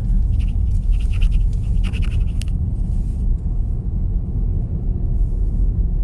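Car cabin road noise: a steady low rumble from the moving car, with faint scratchy rustles over it in the first few seconds.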